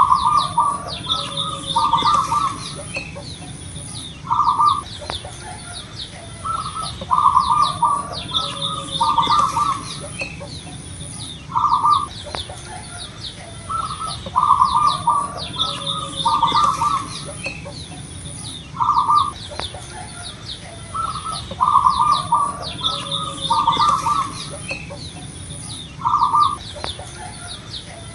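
A zebra dove (perkutut) singing its loud cooing song over and over, in short phrases of several notes a few seconds apart. Fainter high chirps of small birds sound in the background.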